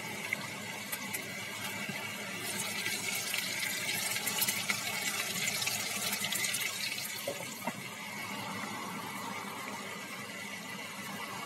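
Meat cutlets sizzling as they fry in oil in a pan: a steady hiss with fine crackling, a little louder in the middle.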